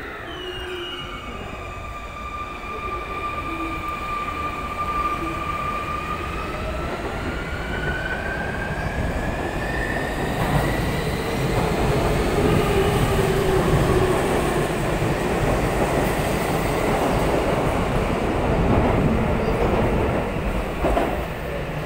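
Sotetsu 21000 series electric train pulling out. Its inverter motor whine holds steady, then rises in pitch as it accelerates, and the running noise of the wheels on the rails grows louder as the cars pass, with a few clacks.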